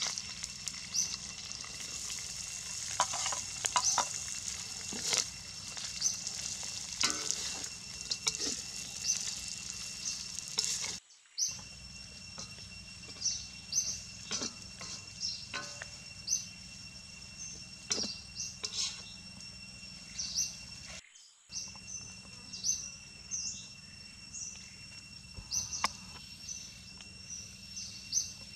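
Fish and chopped garlic frying in oil in a steel wok, sizzling, with a metal spatula scraping and tapping against the pan. The sizzle is loudest for about the first ten seconds, then softer.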